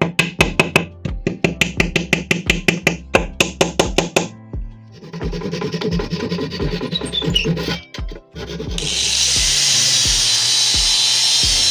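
Woodworking shop sounds over background music. First comes a quick run of sharp taps, about five a second, then rough rasping strokes on wood. From about nine seconds a high-pitched power tool runs steadily.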